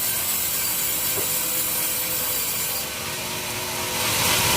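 Sawmill saw running with a steady mechanical whirring hiss, growing louder about four seconds in.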